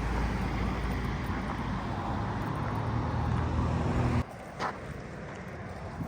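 Car driving: a steady low rumble of engine and road noise that cuts off abruptly about four seconds in, leaving a quieter background hum.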